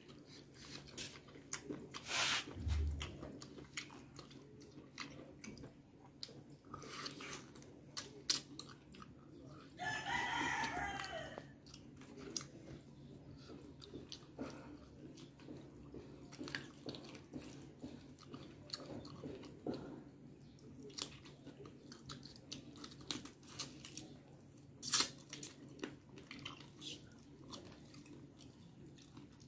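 Close-miked eating sounds of someone working through chicken feet and chicken by hand: chewing, biting and crunching with scattered wet clicks and smacks. About ten seconds in there is a brief call lasting a second and a half.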